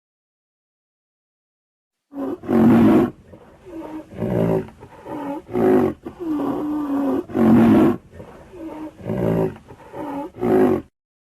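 An animal roaring over and over: after about two seconds of silence, a run of about ten deep roars and grunts, some long and some short, the loudest two roughly five seconds apart.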